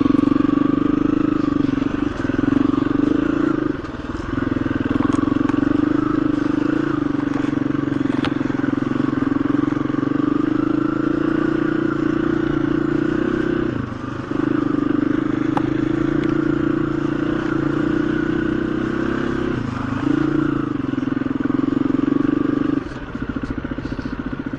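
KTM 350 EXC-F single-cylinder four-stroke dirt bike engine running steadily under way, with the throttle briefly backed off four times.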